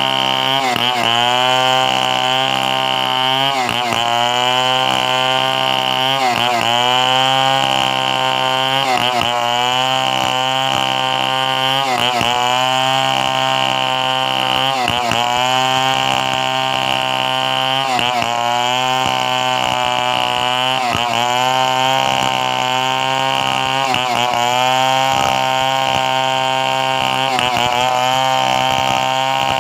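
Two-stroke chainsaw running at high revs and cutting coconut wood. Its pitch sags briefly about every two and a half seconds as the chain bites under load, then climbs back.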